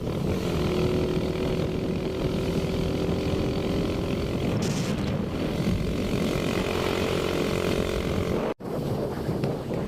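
Motorbike engine running steadily under way, with wind noise over the microphone; the sound cuts out for an instant near the end.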